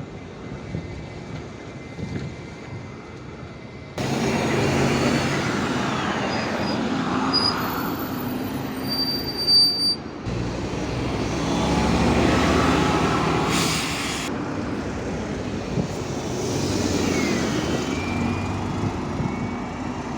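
IVECO city bus running in traffic, heard in short clips joined together: quieter for the first four seconds, then much louder from about four seconds in, with another change at about ten seconds.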